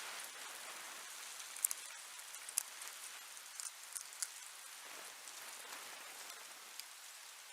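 A small pet nibbling at its food: faint, irregular little clicks scattered over a steady hiss.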